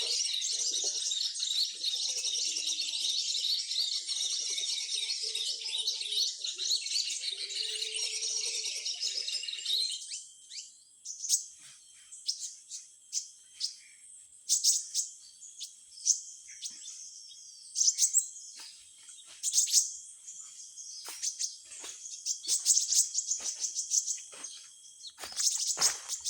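Small birds chirping: a dense, continuous chatter of many high calls for about ten seconds that cuts off abruptly, then scattered sharp single chirps over a steady high insect buzz.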